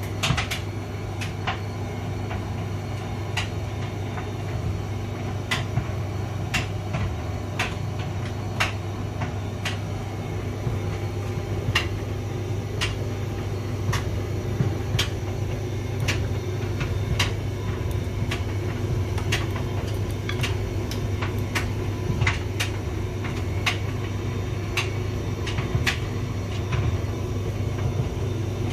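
Hotpoint vented tumble dryer running: a steady low hum of the motor and turning drum, with irregular sharp clicks and knocks as the load tumbles inside the drum.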